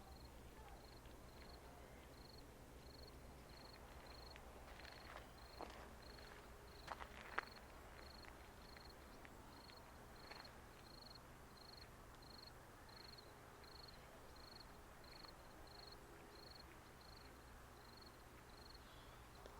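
A cricket chirping at an even pace, about two high chirps a second, over a faint low rumble. A few sharp clicks come about a third of the way in.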